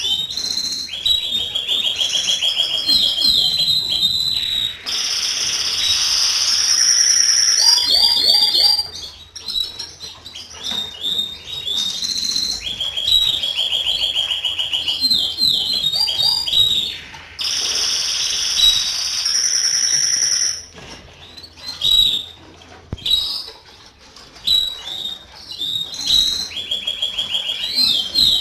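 Domestic canary singing: phrases of fast trills alternating with long, high, held whistled notes, with short pauses between phrases. The loudest held notes come about five seconds in and again in the second half.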